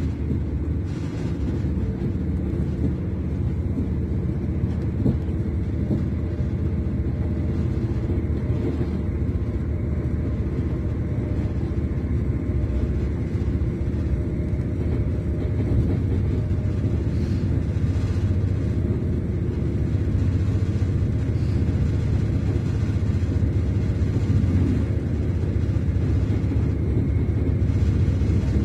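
Steady low rumble of a Class 221 Super Voyager diesel-electric train running at speed, heard inside the passenger saloon, growing slightly louder in the last third.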